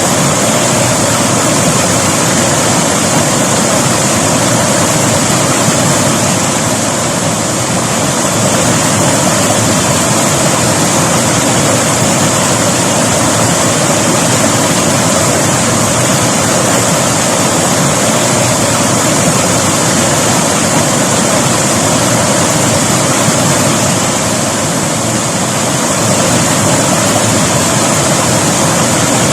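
River water rushing and flowing over rocks, loud and steady.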